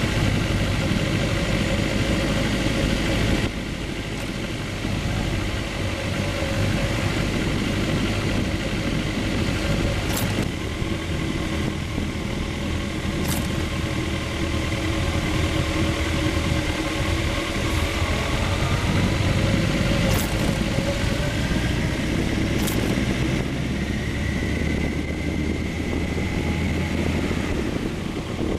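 Sport motorcycle engine running at low speed in traffic, its pitch rising and falling with the throttle, with a few brief sharp clicks along the way.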